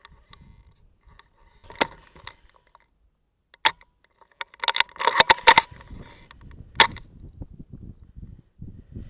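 Airsoft guns firing: single sharp shots about 2 and 3.7 seconds in, a rapid burst of shots a little before the middle, and one more shot near 7 seconds. Low rumbling handling or movement noise is heard alongside from the burst onward.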